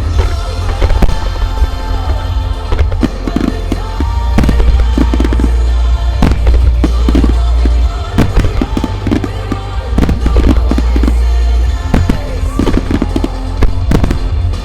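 Starmine fireworks shells bursting in rapid, overlapping volleys, many sharp bangs a second at the densest, over loud music with a heavy bass.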